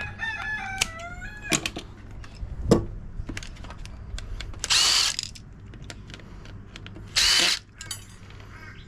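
A rooster crows once in the background at the start. Then come scattered clicks and knocks of hand tools and parts being handled and cut, and two short whirring bursts of a power drill about five and seven seconds in.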